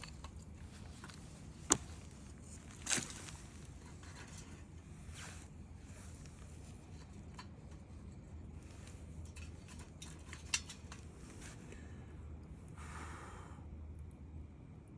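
Wood campfire crackling, with a few sharp pops, the loudest about two seconds in, another a second later and one near the end, over a low steady hum. A short rustling hiss comes shortly before the end.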